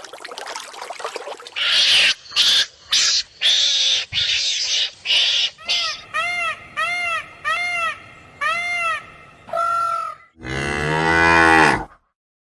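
A sequence of different animal calls: a few harsh, noisy bursts, then about seven short, evenly repeated pitched calls, then one long, low call that ends abruptly near the end.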